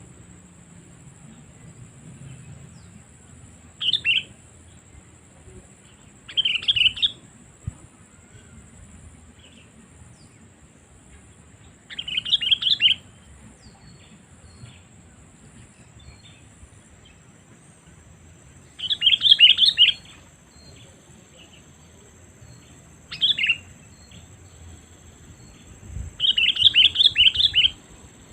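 Sooty-headed bulbul calling: six short bursts of quick chattering notes, several seconds apart, with the last and longest near the end.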